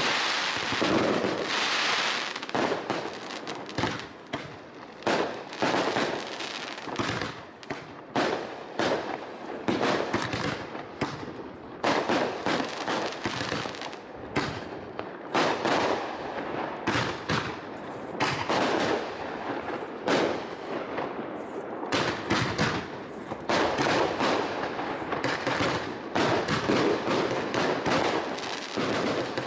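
Fireworks display: a dense, unbroken run of bangs and crackling bursts, one after another with no pause.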